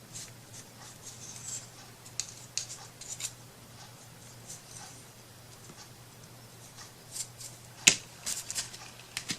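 Small handling noises from hands-on craft work: scattered light rustles and taps, with a sharp click about eight seconds in and a few more right after it.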